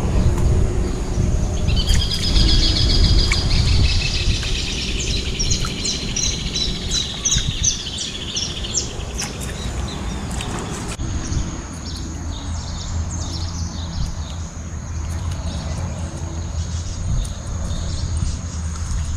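A songbird singing a long, trilled song of rapid chirps for several seconds, over a steady low rumble. After the song stops about halfway through, fainter high chirps continue.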